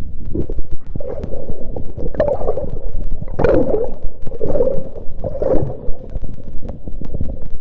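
Water sloshing and gurgling close to the microphone, with a heavy low rumble and scattered knocks, swelling several times about a second apart.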